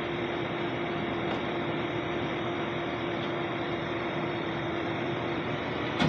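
Car exhaust idling steadily through its stock muffler, before any modification, with one steady tone held throughout. A much louder sound breaks in suddenly at the very end.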